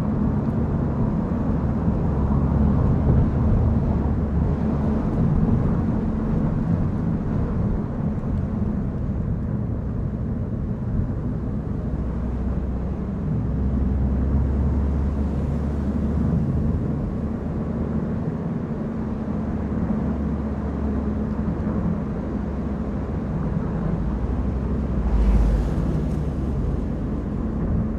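Car driving on a road: steady low rumble of engine and tyres, with a brief louder whoosh about 25 seconds in.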